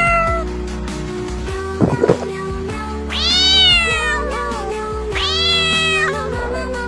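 Two long cat meows, each rising then falling in pitch, over steady background music, with a short rattling burst about two seconds in.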